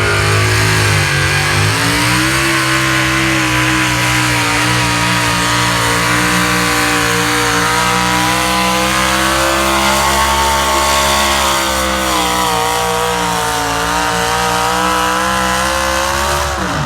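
Pickup truck engine held at full throttle while pulling a weight-transfer sled. Its pitch sags and recovers under the load, then drops off sharply near the end as the run ends.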